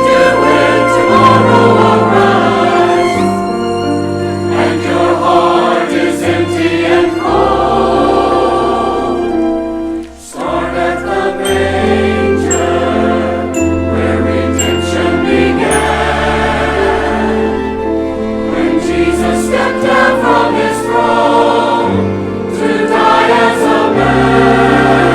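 Church choir singing a Christmas piece with orchestral accompaniment, held low bass notes moving underneath; the music drops off briefly about ten seconds in.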